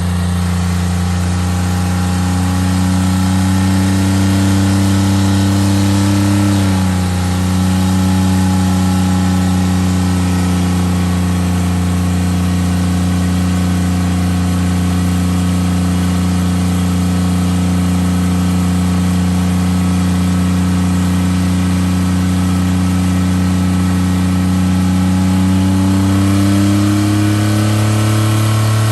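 A truck engine running loud and held at a steady speed for a long stretch. It dips briefly about seven seconds in, then climbs in pitch near the end.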